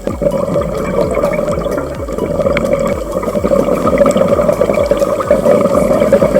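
Loud rushing, bubbling water noise that starts abruptly, with background music underneath.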